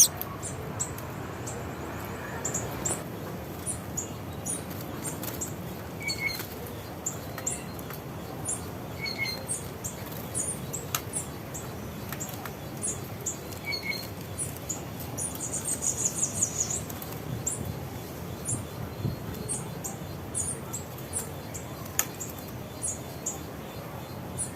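Small songbirds calling with many short, high chirps, several a second, and a brief denser trill about sixteen seconds in; a lower two-note call comes a few times, over a steady background hiss.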